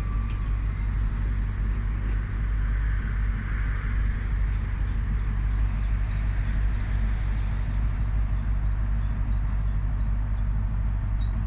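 Train engines idling at the platform, a steady low hum. Over it a small bird chirps repeatedly, two to three short high notes a second, from about four seconds in, ending with a quick falling trill near the end.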